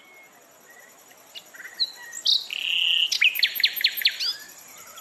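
Songbird singing a varied song of chirps, whistled sweeps and quick trills, getting louder after the first second, with its loudest run of rapid notes about three seconds in.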